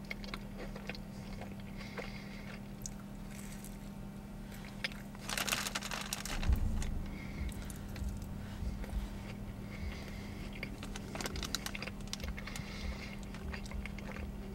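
Close-up chewing of a flaky glazed cronut: soft mouth sounds and small crunches, with a louder noisy stretch from about five to seven seconds in.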